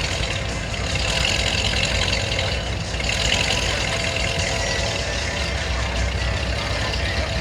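Car engines idling with a steady low rumble, over a continuous outdoor background hiss.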